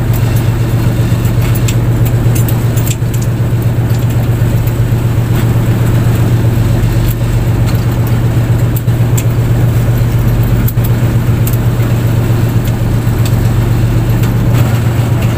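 Fishing boat's engine running steadily with a deep, even drone, along with scattered light rattling clicks.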